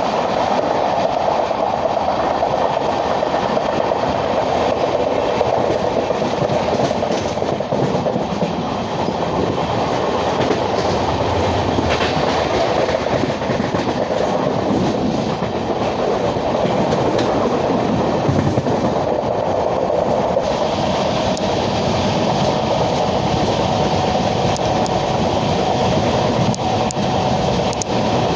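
Passenger train running steadily on the track: a continuous rumble and hiss of the LHB coach's wheels and running gear, with occasional faint clicks from the rail joints.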